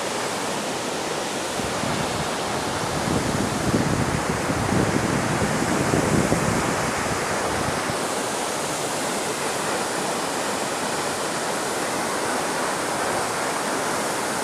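Waterfall: the steady, even rush of falling water, swelling a little in the lower range a few seconds in.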